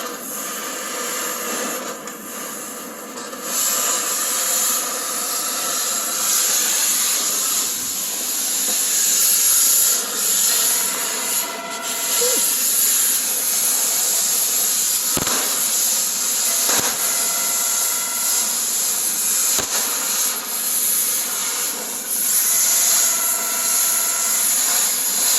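A cutting torch hissing steadily as it burns through the truck bed's bolts, with a few sharp pops of spitting metal, banging away like popcorn.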